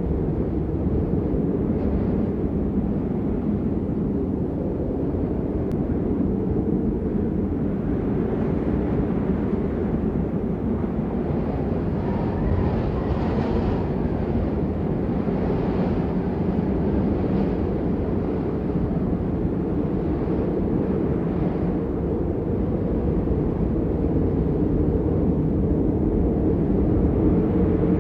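Steady, muffled rain noise, deep and even, with most of its sound low and very little hiss.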